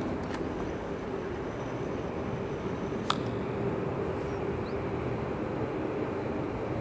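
Steady mechanical rumble with a faint hum, and one sharp click about three seconds in.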